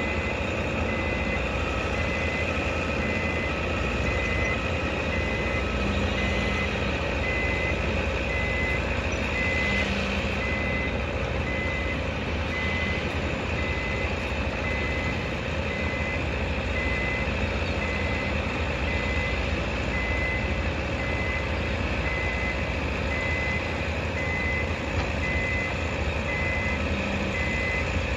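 Construction vehicle's reversing alarm beeping steadily, about once a second, over a steady low engine rumble. A second, lower-pitched reversing beeper sounds alongside it for the first several seconds.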